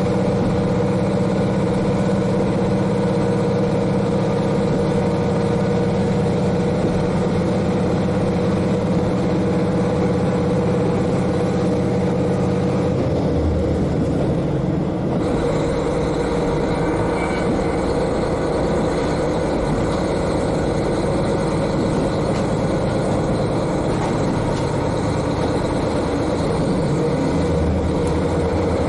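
Diesel railcar's N-DMF13HZI engine running steadily, heard from directly above it inside the car, with wheel and running noise. The engine note shifts about halfway through.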